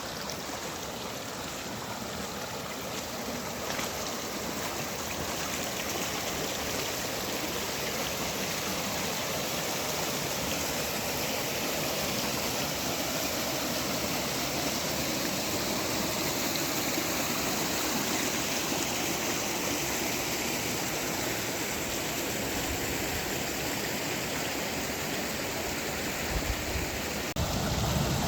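Mountain stream rushing steadily over rocks. A louder low rumble comes in near the end.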